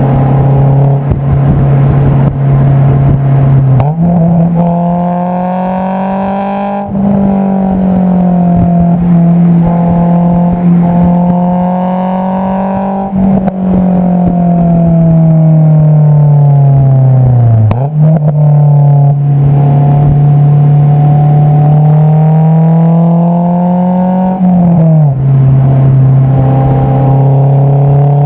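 Honda S2000's 2.2-litre four-cylinder engine heard through its Invidia Q300 cat-back exhaust, recorded close to the tailpipe while driving. The loud, steady engine note holds at mid revs, slowly climbs and eases off, and jumps in pitch a few times with gear changes.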